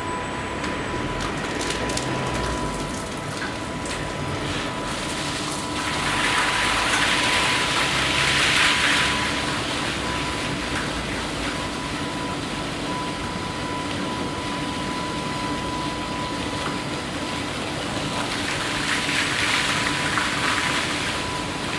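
Automatic car wash machine running: a steady machine hum with a thin whine, and a hissing spray of water that swells louder twice, for about three seconds a few seconds in and again near the end.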